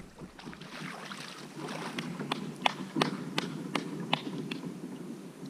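A run of sharp clicks, about three a second, over a steady low rushing noise of wind and water while a fish is being fought from a kayak.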